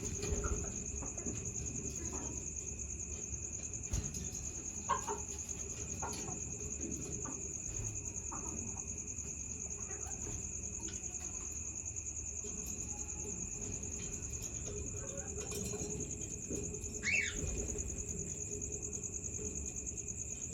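Bengalese finches giving occasional short chirps, with a louder rising call near the end, over a constant high-pitched insect trill.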